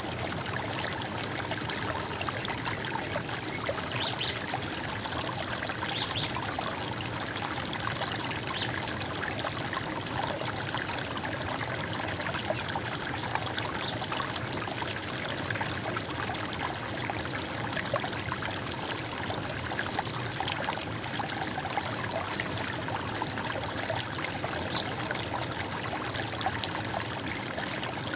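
Steady gurgling and trickling of a stream of running water.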